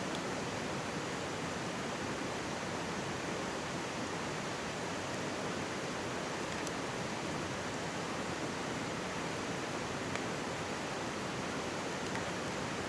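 Mountain stream rushing and babbling steadily close by, with a few faint crackles from a campfire.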